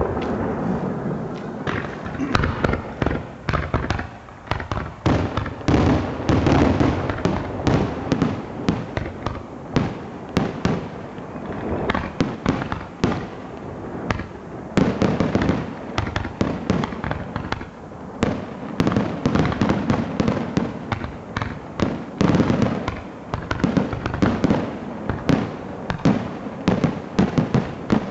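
Fireworks display: many bangs and booms in quick, overlapping succession, with a low rumble between them, the loudness rising and falling in waves.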